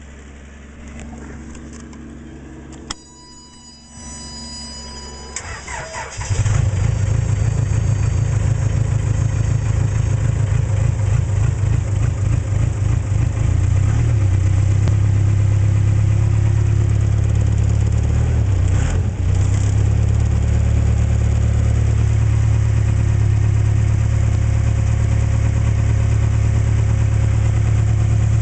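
Case 580K backhoe's diesel engine cold-started. A steady warning beep sounds for about two seconds, the starter cranks briefly, and the engine catches about six seconds in. It runs unevenly at first, then settles into a steady idle.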